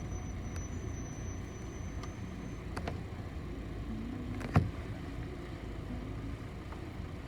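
Cabin noise inside a city bus: a steady low rumble from the engine and running gear, with one sharp knock a little past halfway and a faint high whine in the first couple of seconds.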